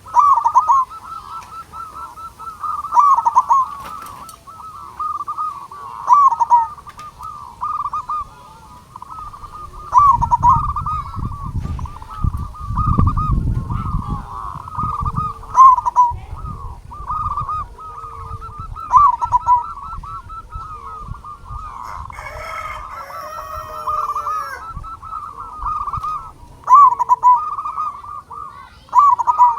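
Zebra dove (perkutut) cooing over and over in short, rapid phrases of quick notes with brief gaps between them. A low rumble comes in about a third of the way through, and a different call with rising notes overlaps briefly about three-quarters through.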